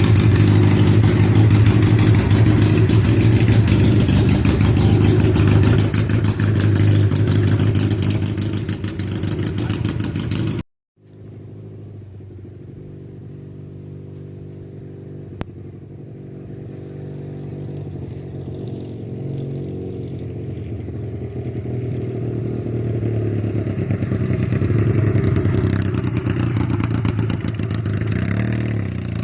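1978 Yamaha XS 650 air-cooled parallel-twin motorcycle engine running loud and close; about a third of the way in the sound cuts off abruptly, and then the engine is heard quieter, growing steadily louder.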